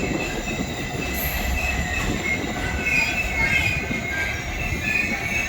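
Alaska Railroad train on the move: a steady low rumble of the cars with high, thin wheel squeal coming and going over it.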